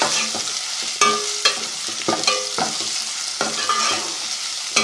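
Onions and ginger-garlic paste sizzling in hot oil in a steel pot, being lightly fried to take off the raw taste of the paste. A steel spoon stirs through them, scraping and clinking against the pot about six times, some knocks leaving a short metallic ring.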